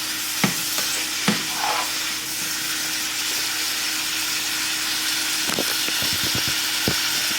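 Steak and peppers sizzling steadily in a hot frying pan. A utensil clicks against the pan twice early on and several times in quick succession near the end, as the food is stirred.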